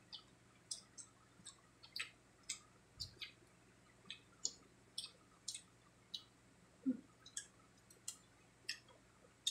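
Close-up eating sounds: scattered short wet mouth clicks and lip smacks from chewing crispy-fried pork cheek, irregular at about two a second, with one soft thump about three seconds in.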